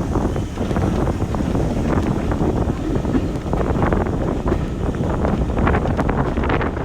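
Wind buffeting the microphone over a steady low rumble, with many small irregular clicks.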